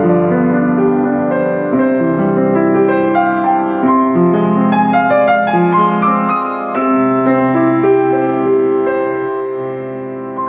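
Steinway & Sons Model R upright piano being played: chords with a melody above them, the notes left to ring and dying away toward the end.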